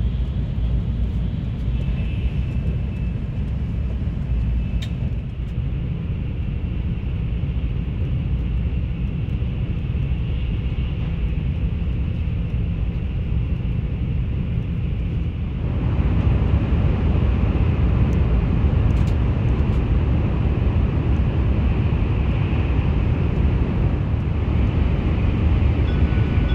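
Steady low rumble and hiss of a Shinkansen bullet train running at speed, heard from inside the passenger car; the noise steps up louder about two-thirds of the way through.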